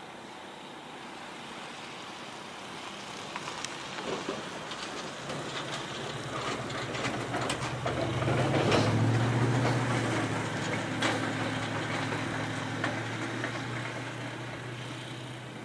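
Radio-controlled model airplane flying past, its motor growing louder to a peak about nine seconds in, then fading away.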